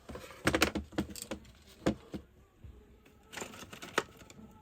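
Small metal tools and wire being handled: a few bursts of clinks and rattles, the sharpest near two seconds and near four seconds.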